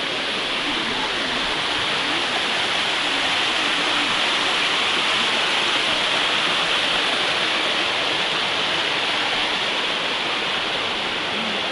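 Waterfall: a steady, fairly loud rush of falling water.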